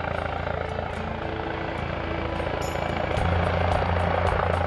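Medevac helicopter on final approach to land, its rotor and turbine running steadily with a fine rotor chop, growing louder about three seconds in.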